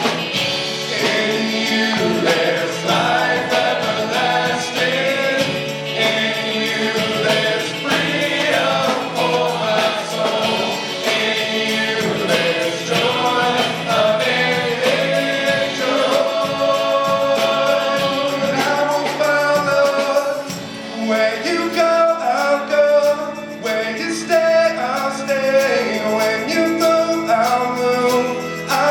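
A church praise team singing a worship song in several voices, with band accompaniment; the music drops back briefly about two-thirds of the way through, then continues.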